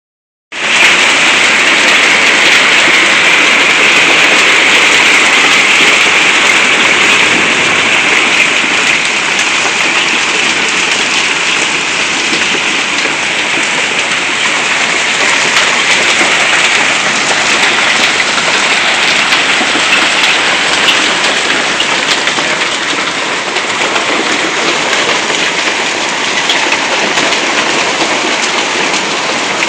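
Hail falling hard: a dense, steady rush of countless small impacts, easing slightly after about eight seconds.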